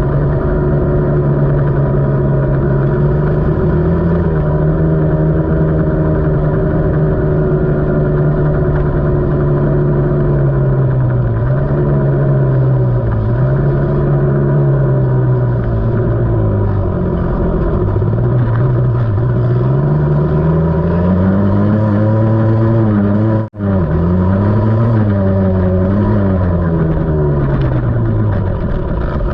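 KTM 300 two-stroke enduro dirt bike engine being ridden, its pitch rising and falling again and again as the throttle is opened and closed. The sound breaks off for a moment about two-thirds of the way through.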